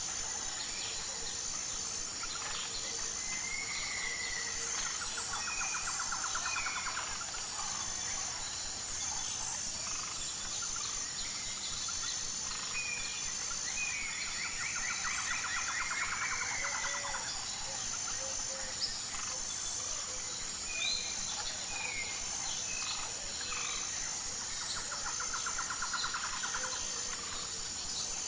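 Songbirds calling in short chirps, with a rapid trilled song coming three times, about ten seconds apart, over a steady high insect buzz.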